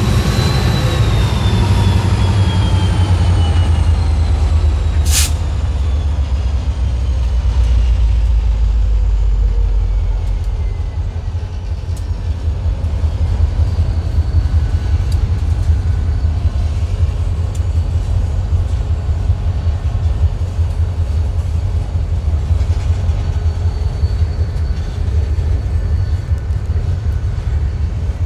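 Diesel freight locomotives pass close by with a deep engine rumble, their higher tones falling in pitch as they go past, followed by the steady rumble of loaded gondola cars rolling over the rails. A single sharp click sounds about five seconds in.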